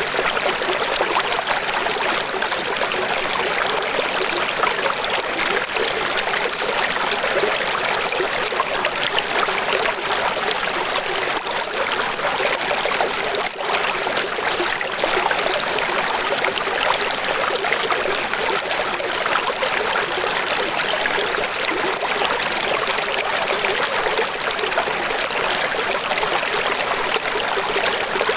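Running water: a steady, bright rush with little low rumble and no change in pace.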